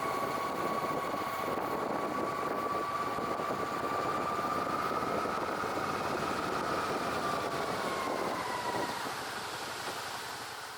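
The engine drone of a passing vehicle: a steady hum over a low rumble that dips in pitch and fades away near the end, as it goes past.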